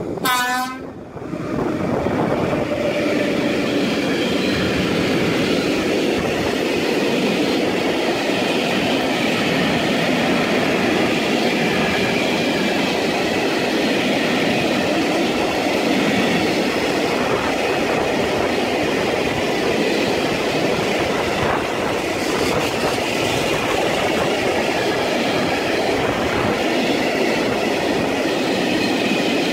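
Freight train of loaded tank wagons behind a Škoda class 182 electric locomotive passing at speed. A brief pitched tone sounds right at the start, then the wagons' wheels rumble and clack steadily over the rails.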